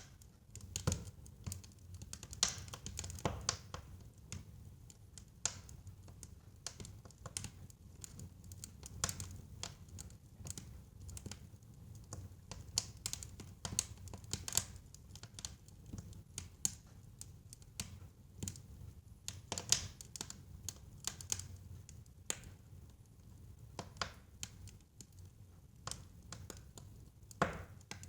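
Wood fire burning in a fireplace: irregular, sharp crackles and pops over a low, steady rumble of the flames.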